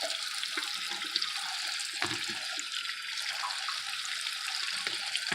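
Kitchen tap water running steadily into the sink, with a few light knocks from handling, one about two seconds in.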